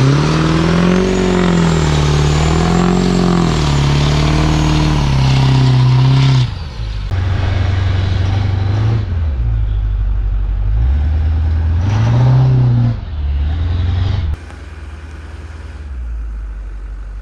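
Single-turbo 6.4 Powerstroke diesel V8 revving hard, with a rising turbo whistle and engine speed surging up and down for about six seconds. It then drops back, revs up briefly once more, and settles to a lower, quieter running sound near the end.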